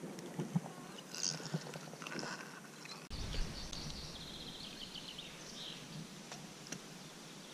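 Quiet outdoor ambience with a small bird's trilling song for a couple of seconds around the middle, and a few faint clicks.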